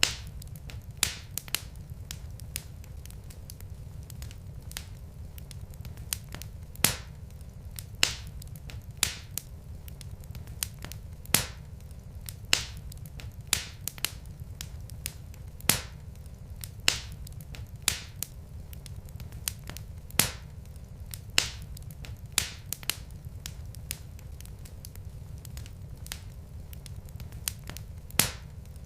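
Burning logs in a fireplace crackling: sharp, irregular pops about once a second over a steady low rumble.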